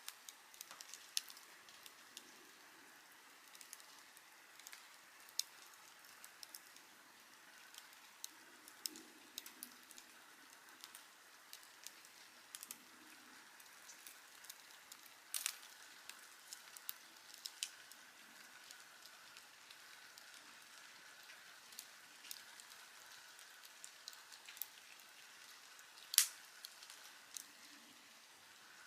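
Wood campfire crackling: frequent irregular pops and snaps over a soft steady hiss, with one louder pop near the end.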